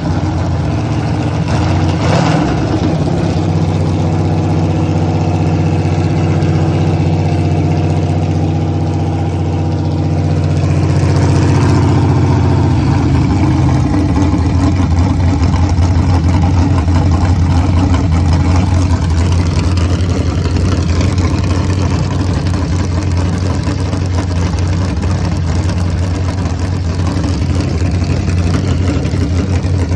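TVR Griffith's rebuilt Rover V8 running with no exhaust fitted, on its first run after a full rebuild. The note rises briefly about eleven seconds in, then settles into a steady idle.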